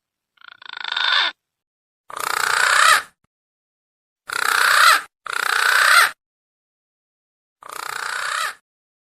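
Green pigeon (punai) giving five harsh, noisy calls, each about a second long, separated by silent gaps.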